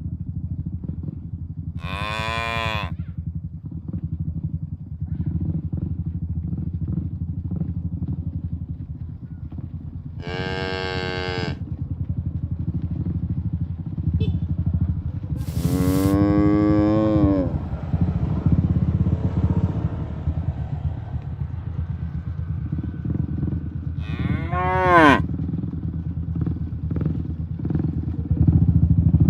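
Cattle mooing: four separate calls spread out with long gaps, the third the longest. A steady low rumble runs underneath.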